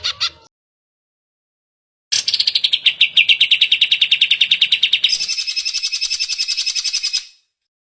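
Cucak ijo (green leafbird) song. A phrase ends about half a second in. After a pause, a fast, even trill starts around 2 seconds in, jumps to a higher, buzzier trill at about 5 seconds, and stops shortly after 7 seconds.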